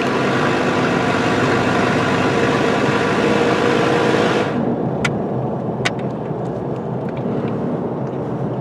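A 2009 Nissan Frontier pickup heard from inside the cab at highway speed: a steady engine hum under road and wind noise. About four and a half seconds in, the loud hiss drops away, leaving a quieter hum, followed by two sharp clicks. The truck is losing power on the highway, which the mechanic puts down to a clogged catalytic converter.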